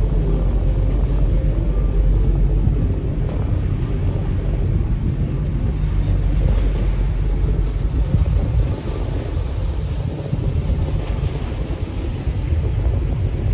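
Wind buffeting the microphone on the open upper deck of a Chao Phraya river tourist boat under way, over the steady low drone of the boat's engine and water rushing past the hull.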